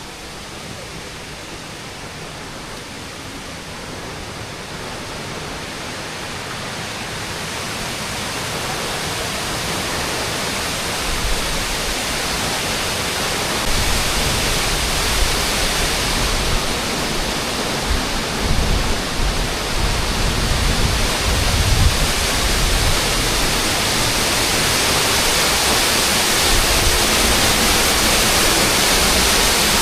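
Rushing water of a mountain river or waterfall, a steady hiss that grows steadily louder as it is approached. A low rumble with a few dull thumps joins about a third of the way in.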